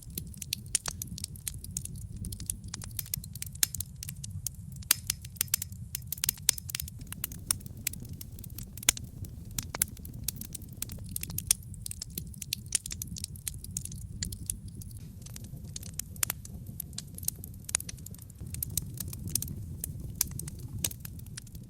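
Wood logs burning in a fireplace, crackling with many irregular sharp pops and snaps over a steady low rumble.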